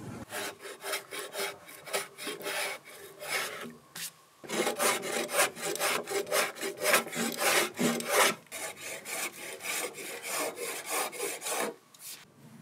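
Steel block plane shaving oak by hand: quick repeated scraping strokes across the grain-cut face, with a short pause about four seconds in, stopping near the end.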